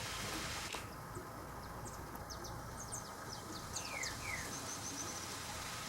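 Forest ambience with small birds calling: scattered short high chirps, two quick falling whistles, and a rapid run of about six high notes near the end, over a steady hiss. The high part of the hiss drops away suddenly a little under a second in.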